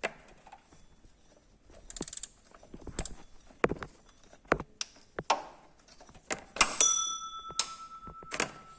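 Metal tools and parts clinking and knocking at irregular moments, one clink near the end ringing on for about a second and a half. No engine is running.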